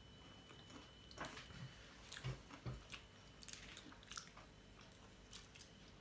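Faint chewing and mouth sounds of people eating soft baked bars: scattered soft smacks and clicks in a few clusters, otherwise near silence.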